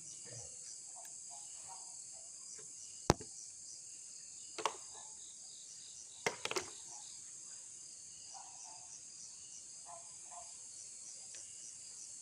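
Night chorus of crickets and other insects, a steady high-pitched trill, broken by a few sharp clicks or knocks, the loudest about three seconds in.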